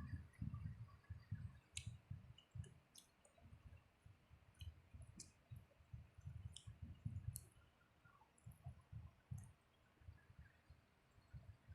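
A person chewing food close to the microphone: soft, irregular low thuds of chewing, with sharp wet mouth clicks and lip smacks scattered through.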